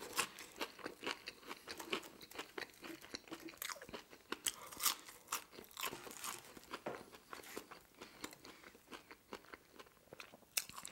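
Close-miked chewing of a ketchup-dipped french fry: a steady run of small wet mouth clicks and crunches.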